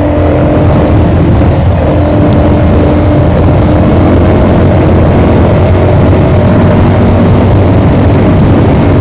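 Motorcycle engine running steadily under way, with heavy wind buffeting on the microphone.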